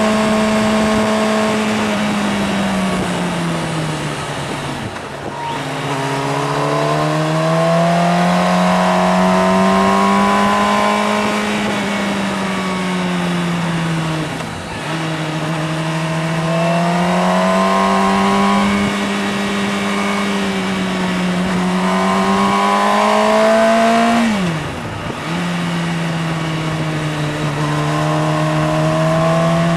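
Motorcycle engine under way, its pitch slowly rising and falling with the throttle. Three times, about 5, 15 and 25 seconds in, the pitch drops sharply and the sound briefly dips before it picks up again, as at a gear change or a closed throttle.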